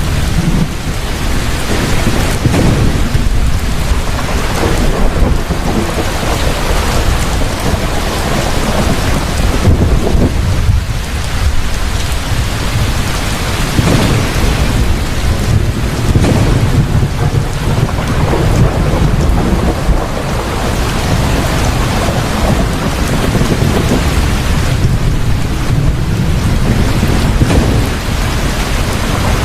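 Heavy rain falling steadily, with rolls of thunder rumbling low and swelling at several points.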